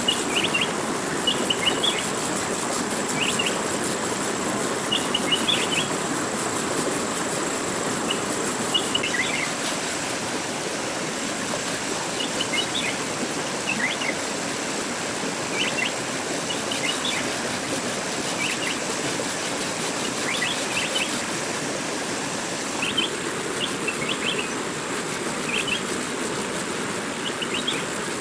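A small bird's short chirps, repeating every second or two, over a steady rushing background noise with a faint thin high whine.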